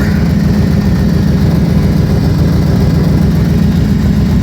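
1975 Ford Thunderbird's V8 engine idling steadily as a loud low rumble, running evenly without misses; the owner says the car needs an exhaust.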